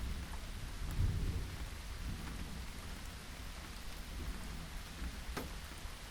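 Steady rain falling, with a low rumble of distant thunder that swells about a second in and slowly fades. A single sharper drop hit stands out near the end.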